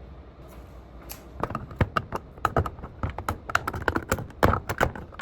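A knife cutting and prying at the metal lid of a can of condensed milk: a quick, irregular run of sharp metallic taps and clicks starting about a second in, as the lid is worked open.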